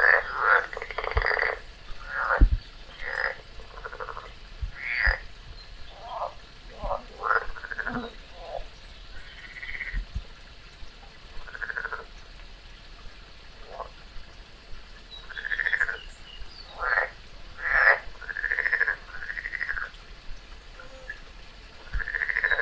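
A frog croaking over and over in short calls at irregular intervals, with a lull about halfway through. These are the calls of a frog being caught by a garter snake.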